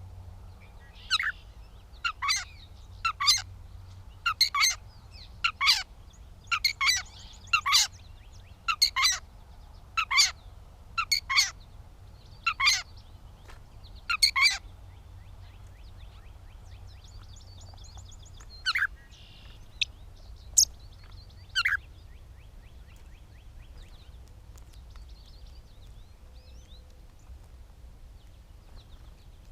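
Gray catbird giving short, sharp calls about once a second, a dozen or so in a row, then three more spaced farther apart; fainter twittering follows.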